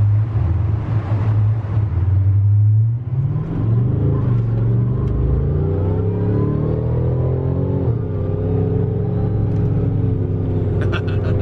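Mega truck's engine pulling under load: a steady low drone, then rising in pitch from about three seconds in as the truck accelerates, dropping once about eight seconds in and climbing again.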